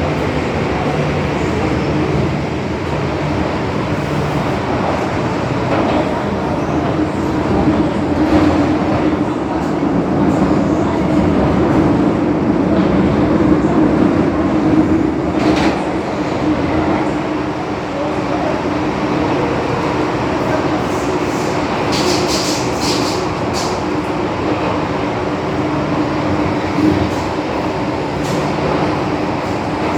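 MTR M-Train electric metro train running between stations, heard from on board: a continuous rumble of wheels on rail with a steady hum. The noise swells a little partway through.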